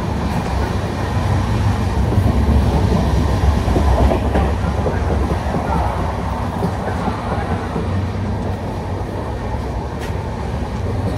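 Indian Railways passenger coach running along the track, heard from inside the vestibule between coaches: a loud, steady low rumble of wheels on rail.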